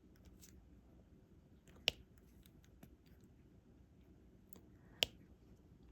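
Diamond painting pen tapping small resin drills onto the sticky canvas: two sharp clicks about three seconds apart, with faint small ticks in between.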